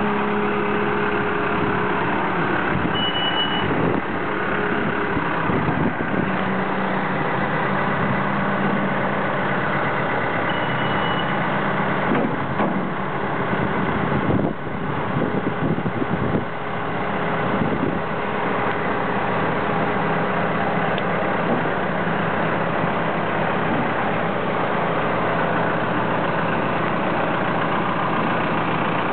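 2005 JCB 214E backhoe loader's diesel engine idling steadily, with a few brief changes in level in the middle.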